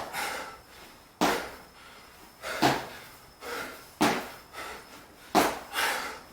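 A person's feet landing on the floor in jump squats, a sharp thud about every 1.4 seconds, with a softer sound between each landing.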